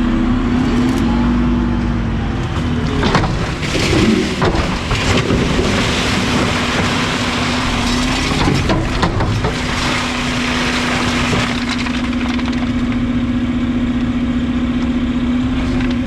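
Garbage truck's engine and hydraulic packer running with a steady drone, while trash in the hopper crunches and cracks as it is compacted, the crunching thickest between about 3 and 10 seconds in.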